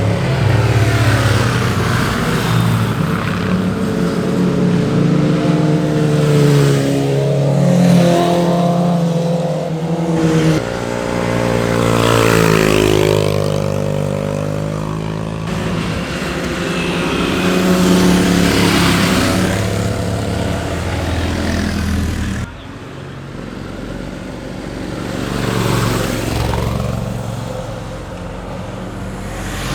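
Sport motorcycles accelerating through a bend and passing one after another, engine pitch rising and falling with each pass and gear change. The sound drops off suddenly about two-thirds of the way through, then another bike builds up.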